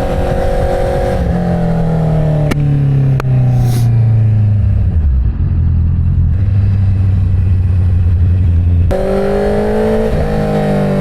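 Inline-four engine of a car on the move: the revs fall away over a few seconds, with two sharp clicks along the way, hold low and steady, then jump up sharply about nine seconds in as it pulls again.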